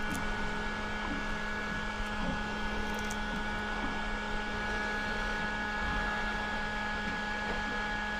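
Steady machinery hum made of several constant tones, with a few faint clicks.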